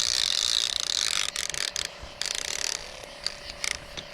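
Fishing reel's line-out clicker ratcheting as the spool turns with a fish on the line: one long run of rapid clicking at the start, then shorter bursts.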